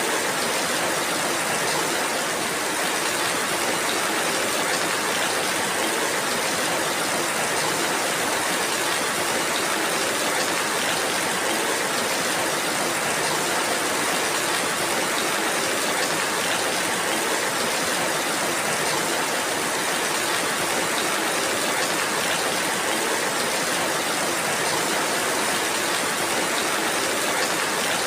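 Steady rainfall: an even hiss that neither swells nor breaks, with no single drops standing out.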